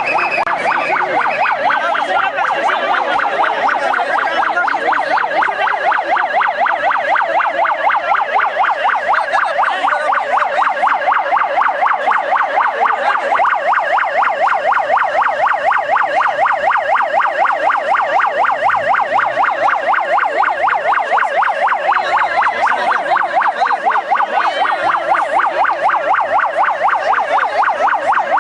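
Emergency vehicle siren sounding continuously in a rapid warble, its pitch swinging up and down several times a second.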